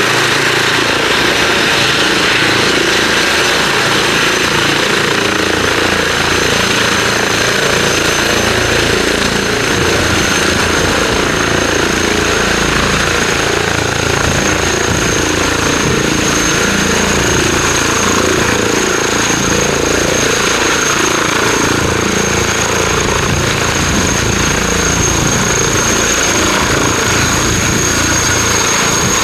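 Twin-turbine helicopter running, loud and steady, with a high turbine whine that grows stronger about a third of the way in.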